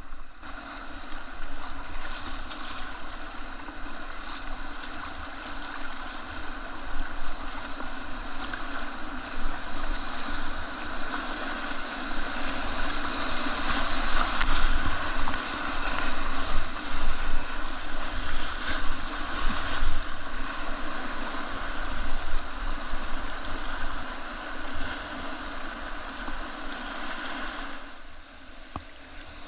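Whitewater of a river rapid rushing and churning around a kayak, a steady roar of water with some wind buffeting the microphone. It builds to its loudest midway and drops away near the end.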